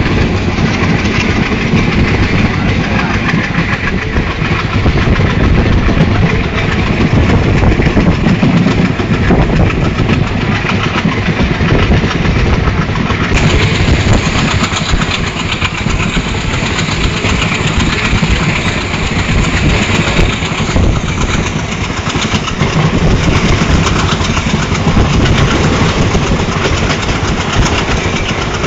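Passenger train running, heard from inside a general compartment: the carriage's steady, loud running noise on the track.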